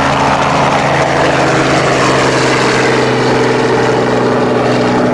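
Small glow-plug model aircraft engine running steadily at a constant speed, with a buzzing note that holds its pitch.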